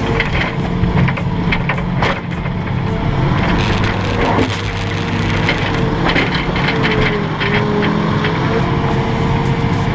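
Heavy machinery's diesel engine running steadily, with a steady whine that sags briefly about seven seconds in, and scattered knocks and clatter.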